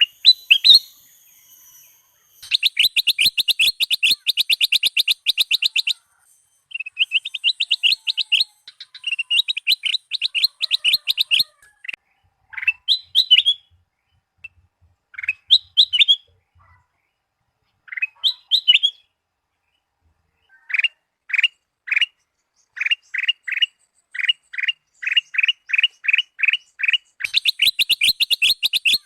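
Kutilang emas (ruby-throated bulbul) song: fast chattering trills of rapidly repeated notes in phrases with short gaps, then slower single rising whistled notes with pauses between them. A run of short, sharp notes follows that speeds up, and near the end the fast trill returns.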